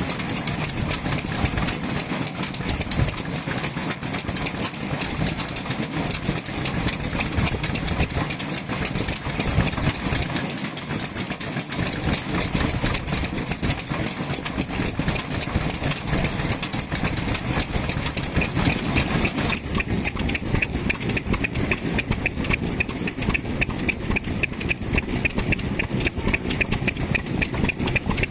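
Vintage stationary kerosene engines running with a steady, rapid chugging rhythm; about two-thirds of the way in the beat turns crisper and more distinct.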